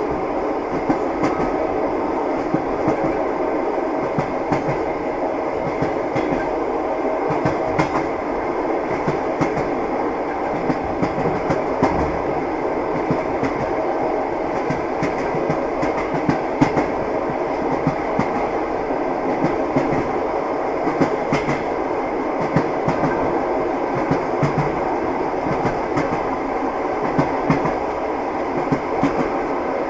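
Moving train: a steady rumble with frequent, irregular knocks of the wheels running over the rail joints.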